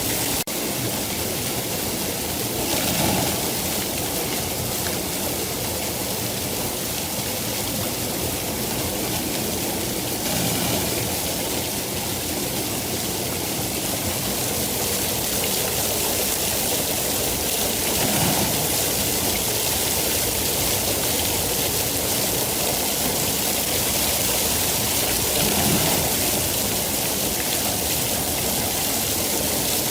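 Steady heavy rain falling, a continuous hiss that swells briefly about every seven or eight seconds.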